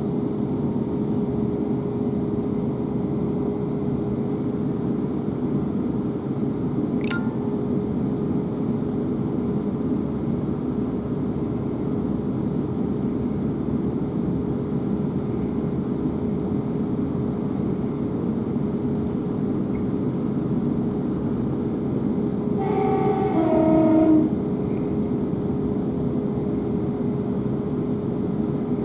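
South Western Railway Class 444 electric train running at speed, a steady rumble with a constant steady tone. About 23 seconds in the train's two-tone horn sounds briefly, a higher note then a lower one.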